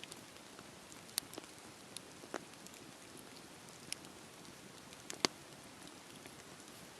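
Wood bonfire crackling: a soft steady hiss with irregular sharp pops and snaps, the loudest about five seconds in.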